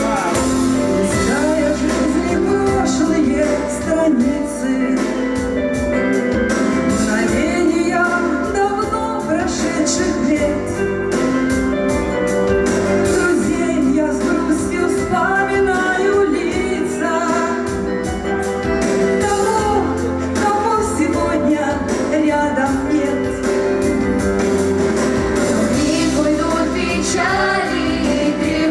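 A song: singing voices over a steady instrumental accompaniment.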